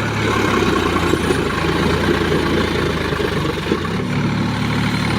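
Sonalika tractor's diesel engine running steadily under the load of a fully loaded trolley, with a slight change in its note about four seconds in.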